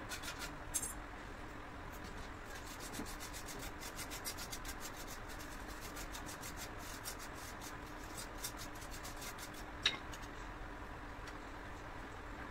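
Quick, evenly repeated rubbing strokes on a hard surface, fading out after about nine seconds, with one sharp click about ten seconds in.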